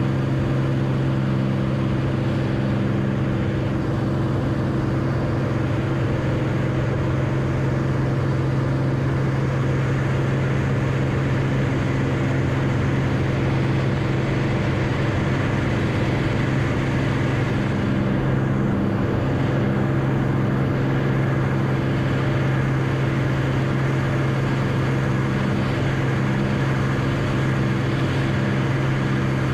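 Steady drone of a light airplane's piston engine, holding one pitch and level throughout with a deep, even hum.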